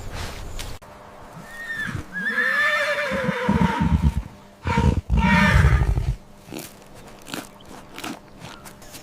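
Horse whinnying: a pitched call from about a second and a half in that droops in pitch. It is followed by two loud, low, rough sounds around the middle, the loudest part.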